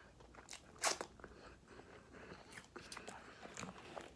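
A person chewing food close to the microphone: quiet, scattered mouth clicks and smacks, the loudest a little under a second in.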